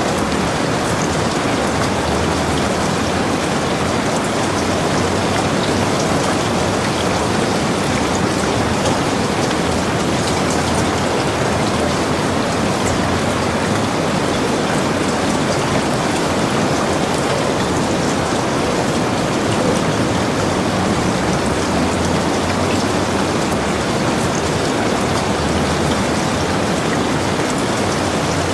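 Heavy rain falling steadily, a dense even hiss of drops with fine patters on surfaces.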